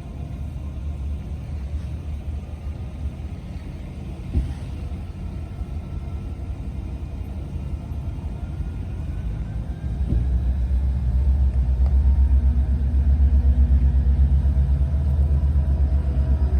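Passing train rumbling steadily, growing sharply louder about ten seconds in as the locomotives or cars come closer.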